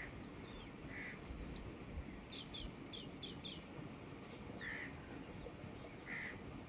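Wild birds calling: short, separate calls a few seconds apart and a quick run of four or five high, falling chirps, over a steady low background noise.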